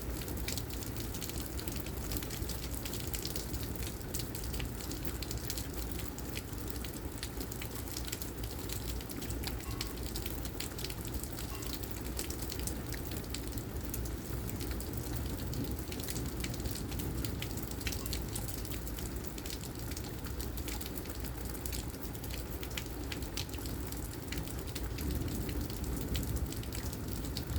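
Heavy rain from a thunderstorm falling steadily, with many sharp drop impacts over a continuous hiss and a steady low rumble underneath.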